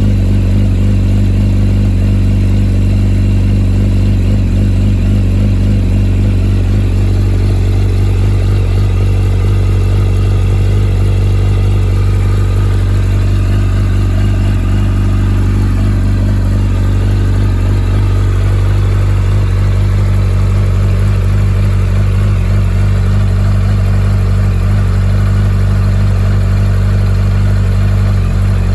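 2007 Yamaha YZF-R1's inline-four engine idling steadily through a full Akrapovič exhaust system, a loud, even low-pitched exhaust note.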